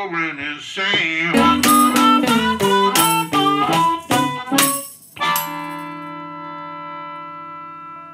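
Chicago blues band playing the last bars of a song, with sharp rhythmic strokes under the notes. About five seconds in it lands on a final chord that rings out and slowly fades.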